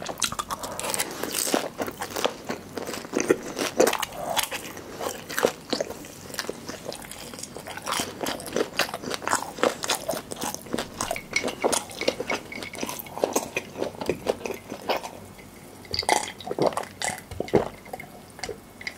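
Close-miked crunching and chewing of guobaorou, bite after bite into its crisp fried coating. Near the end, gulps of a drink from a glass.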